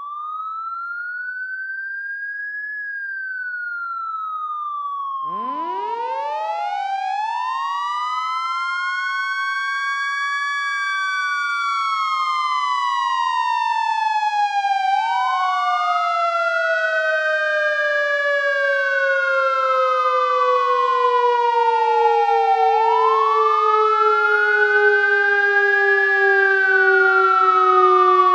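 Emergency-vehicle siren wailing, its pitch rising and falling in slow cycles of about eight seconds. About five seconds in, a second siren joins: it climbs in pitch over several seconds, then sinks slowly. The whole grows gradually louder.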